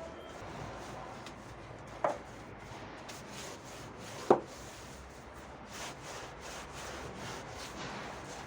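Cleaning work, repeated strokes of rubbing against a surface, broken by two sharp knocks about two seconds and about four seconds in.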